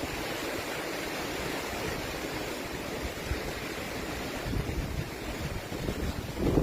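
Wind rushing over the microphone: a steady noise with stronger low gusts near the end.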